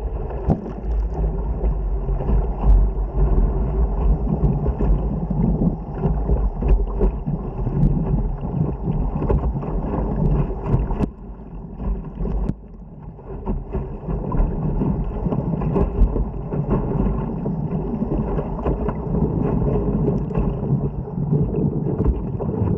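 Whitewater rapids rushing past a surfing kayak, with wind buffeting the microphone. The rush eases briefly about eleven seconds in and again a second or so later.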